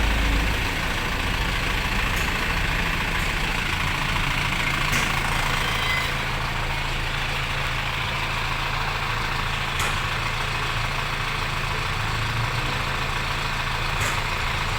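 Engine idling steadily, with a few faint clicks.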